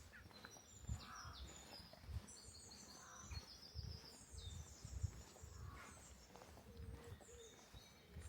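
Small songbirds singing quick, high, trilling phrases that often fall in pitch, over the soft thud of footsteps at a steady walking pace.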